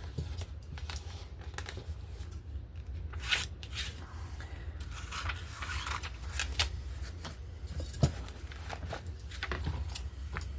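Scissors snipping through thin magazine paper as bird pictures are cut out: irregular short snips with some paper rustling, over a low steady hum.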